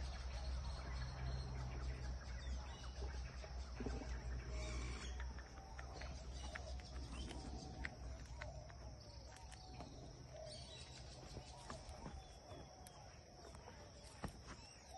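Birds calling in the background, with a low rumble over the first few seconds.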